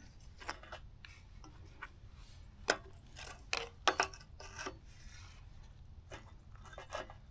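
Steel pieces and magnets clinking and knocking as a splitter wedge is set in place: about eight short metallic clinks, several close together in the middle, over a faint steady low hum.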